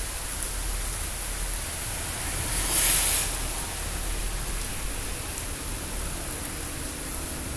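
Rain falling during a thunderstorm, a steady hiss with a brief swell about three seconds in.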